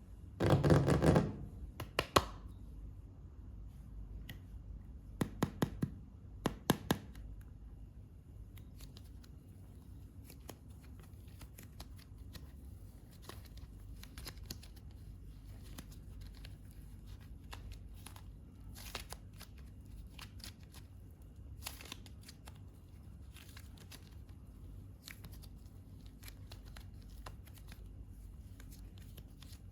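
Hands handling and working modelling clay: a loud rustle in the first second, a handful of sharp taps between about five and seven seconds in, then soft scattered clicks and crinkles.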